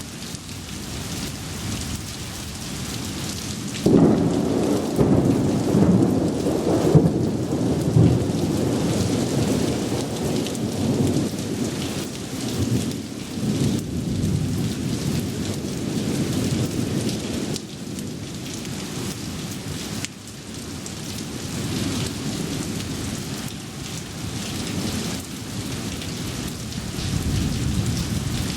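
Heavy rain falling steadily, with thunder: a sudden loud thunderclap about four seconds in that rumbles on for several seconds, and further rolls of thunder later.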